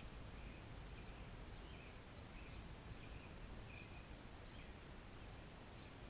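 Faint short bird chirps, one every second or so, over a steady low outdoor background rumble.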